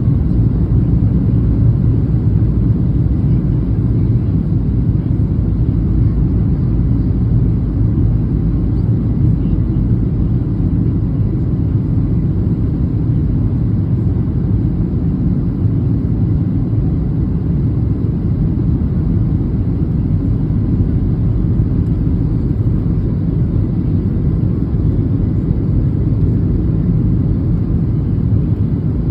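Steady low rumble of an airliner's engines and airflow, heard from inside the cabin, unchanging throughout.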